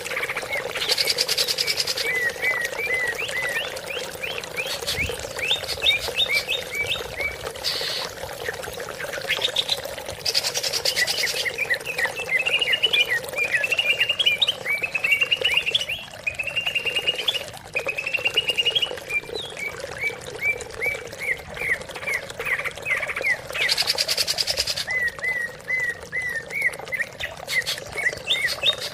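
Greater green leafbird (cucak ijo) singing: long runs of quick, repeated whistled notes, broken four or five times by brief harsh, raspy bursts.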